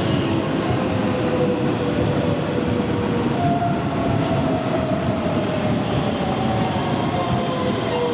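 Keihan electric commuter train running alongside the platform, a steady rumble with thin whining tones that slowly fall in pitch.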